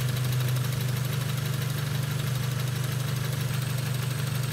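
Car engine idling steadily. The owner suspects a leaking head gasket is pushing exhaust gas into the coolant.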